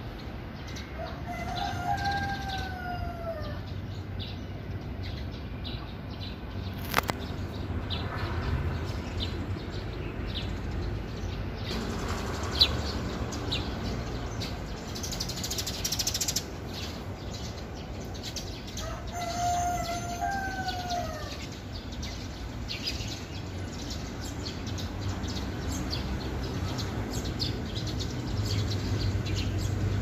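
A bird calls twice, with long arched calls that rise and then fall, one near the start and one about two-thirds of the way through, over a steady low background rumble.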